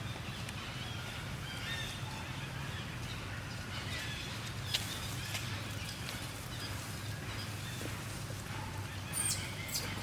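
Outdoor ambience: faint short chirping calls over a steady low hum, with a sharp click about halfway through and a brief high-pitched sound near the end.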